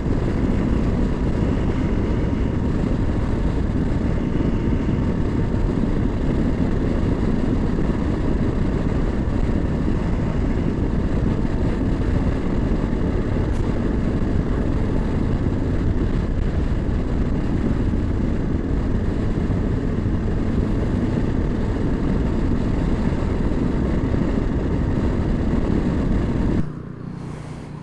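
Honda Africa Twin parallel-twin motorcycle on the move: a steady engine drone mixed with wind rush, which drops away abruptly about a second before the end.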